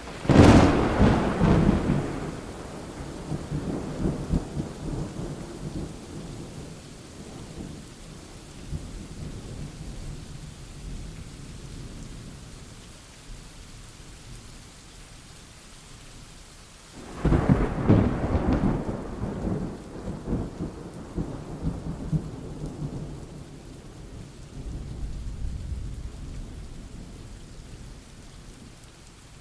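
Thunderstorm: steady rain under two loud claps of thunder, one at the start and another about 17 seconds in. Each clap trails off in a long low rumble, and a softer rumble rises near the end.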